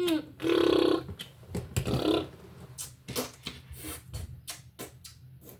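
A child's voice making a held, wordless vocal noise about half a second in and a shorter one about two seconds in, with small sharp clicks of plastic Lego pieces being handled throughout.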